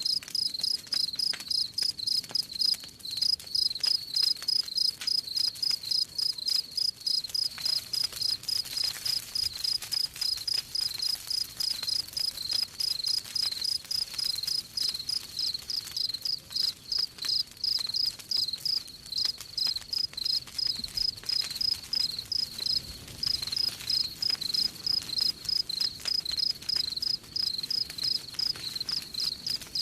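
Cricket chirping steadily in an even rhythm, about two to three chirps a second, over faint crackling of a wood campfire.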